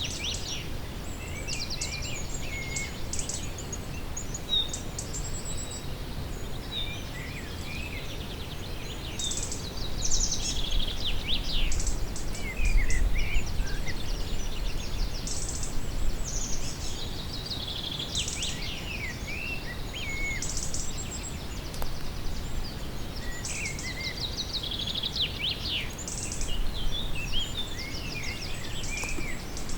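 Several small birds chirping, trilling and whistling in quick, overlapping phrases, over a low rumble that grows louder for a few seconds in the middle.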